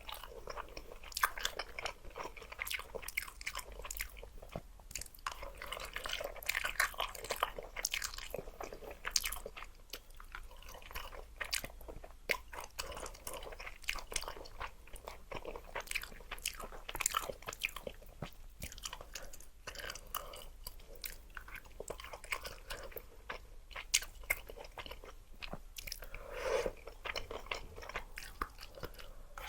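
Close-up mouth sounds of a person eating luosifen noodles: steady chewing with many small wet clicks and crunches, and a longer slurp near the end.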